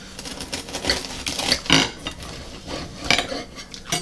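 Close-up eating sounds: chewing, with irregular clicks of cutlery against a plate.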